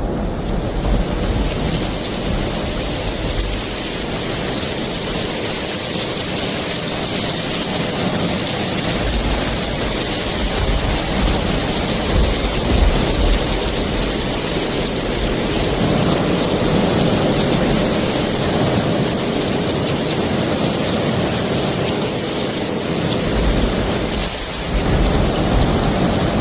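Heavy rain falling steadily, a dense even hiss, with low rumbles of thunder that come and go, at the start, in the middle and again near the end.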